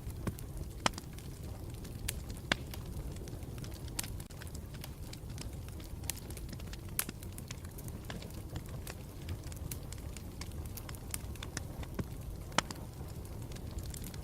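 Campfire burning with a steady low rumble and scattered sharp crackles and pops, the loudest a little under a second in, about two and a half seconds in and near the end.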